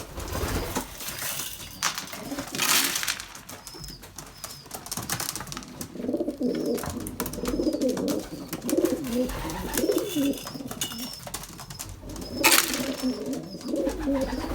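Domestic racing pigeons cooing in a small loft, the cooing starting about halfway through. A few short rushing bursts come in between, the loudest near the end.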